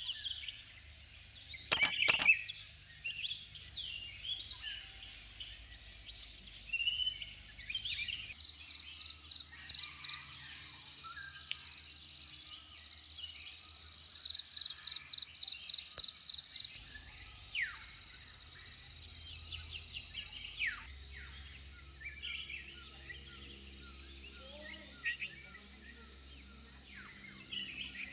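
Wild birds chirping and calling, with a rapid trill in the middle, over a steady high-pitched whine. A few sharp clicks about two seconds in.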